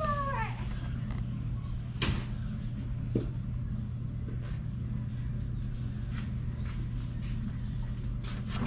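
A few sharp clicks and knocks from dash parts and wiring being handled, over a steady low hum.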